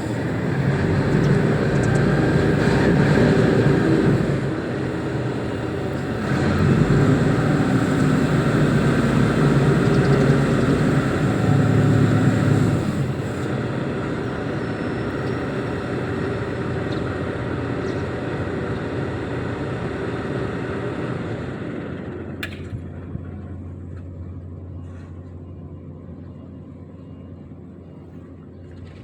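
Reachstacker's diesel engine working hard in two revved-up stretches, then dropping back to a steadier, quieter run that slowly fades, with one sharp click about two-thirds of the way through.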